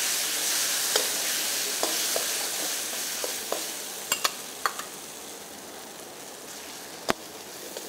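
Ground coconut paste frying and sizzling in hot oil in a pan, the sizzle slowly getting quieter, while a spatula scrapes and taps the pan several times, with one sharp knock near the end.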